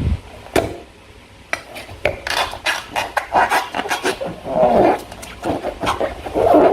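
Slime being squeezed and kneaded by hand: irregular sticky squelches with many small crackling snaps, louder squishes a couple of seconds in, again past the middle and near the end.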